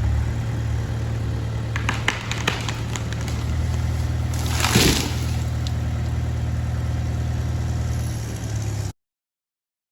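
Bulldozer's diesel engine running steadily, with a run of sharp cracks and snaps about two seconds in and a louder burst of noise near five seconds. The sound cuts off suddenly near the end.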